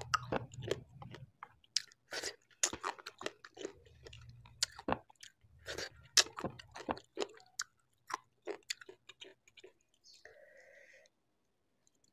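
Close-miked chewing of spicy food, with wet mouth clicks and crunches that come thick at first, thin out after about eight seconds and stop near the end.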